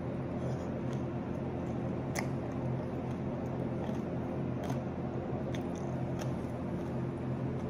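A man chewing a bite of whole lemon, peel and all, close to an earbud microphone: wet mouth sounds with a few sharp clicks, over a steady low hum.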